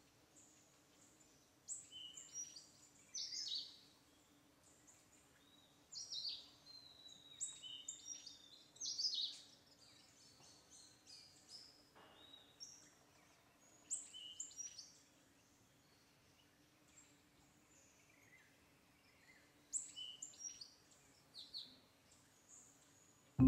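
Small birds chirping, with clusters of short, quick, high descending notes coming and going every few seconds over a faint steady low hum.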